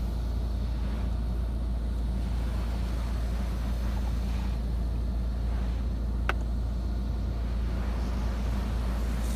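PDQ LaserWash 360 touchless car wash heard from inside the car during its pre-soak pass: a steady low rumble under a soft spray hiss, with one brief high chirp about six seconds in.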